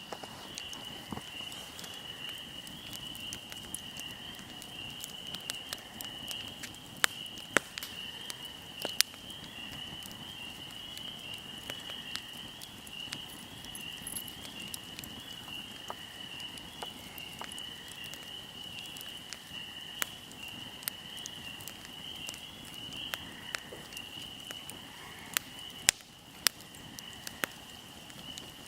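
Fire crackling with scattered sharp pops, a few of them louder snaps. Under it runs a steady high-pitched insect chirring like crickets.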